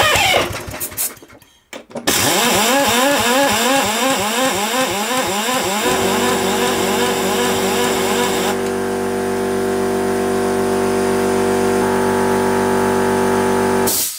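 Homelite V35 lawnmower's petrol engine running with its revs surging up and down about twice a second, the choppy surging it was reported for. It dies away in the first second or so, then runs surging again. About six seconds in it settles into a steady, even run, and it cuts off suddenly near the end.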